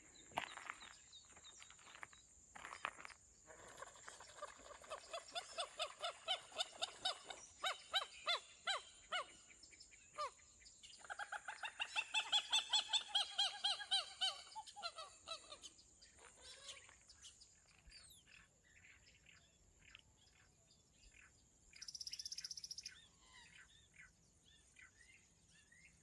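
Desert birds calling: a long run of repeated, evenly spaced harsh notes, then about halfway through a second, faster and louder run, over a steady high hiss.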